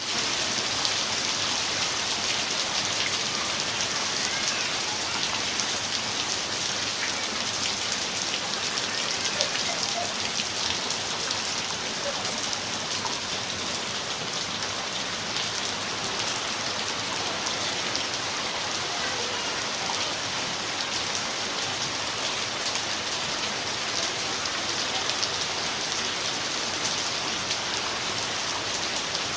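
Steady rain falling, a dense even hiss with countless individual drops ticking through it.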